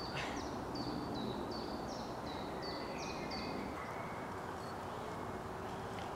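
A small songbird singing a quick run of about nine short, falling notes, one every third of a second or so, stopping about three and a half seconds in, over a steady background hiss.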